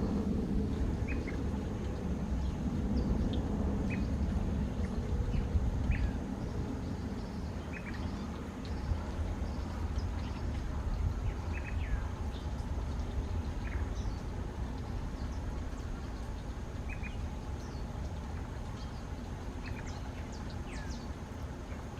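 Birds calling: short, separate chirps every second or two, some higher and some lower, over a steady low outdoor rumble.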